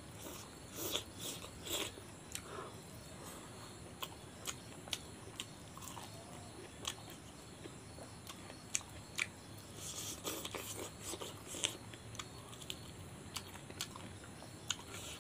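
Mouth sounds of a person eating rice and chicken curry by hand, picked up by a clip-on microphone on his chest: chewing and lip smacking as irregular short clicks, busier about two-thirds of the way through.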